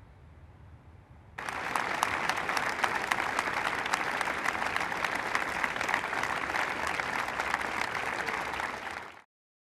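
A large crowd bursts into applause about a second and a half in, clapping steadily and densely, marking the end of a minute's silence. The sound cuts off abruptly near the end.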